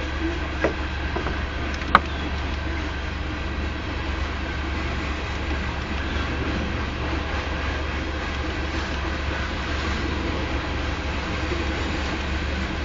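Freight train's coal hopper cars rolling past: a steady rumble of steel wheels on rail. A couple of sharp clicks come near the start, the loudest about two seconds in.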